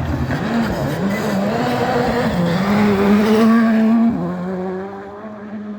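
Rally car engine at high revs coming through the stage, its note climbing to its loudest about three and a half seconds in, then dropping sharply and fading as the car goes past.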